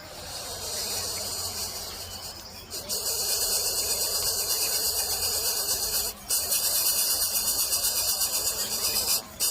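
A loud, steady, high-pitched insect-like buzzing. It swells about three seconds in and cuts out briefly twice.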